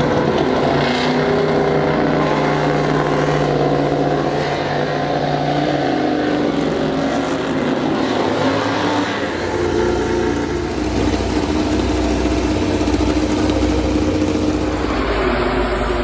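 MotoGP racing motorcycle engines running loudly, their note shifting with revs. A deeper rumble joins about nine seconds in.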